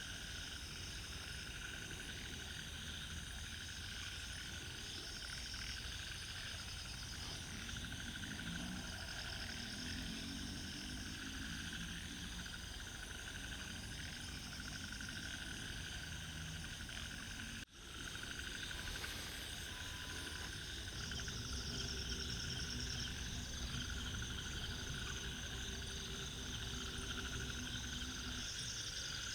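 Chorus of ornate narrow-mouthed frogs (Microhyla ornata): rapid rattling trains of pulses lasting a few seconds each, repeating over a steady background of other frogs and insects. The sound cuts out for an instant about 17 seconds in.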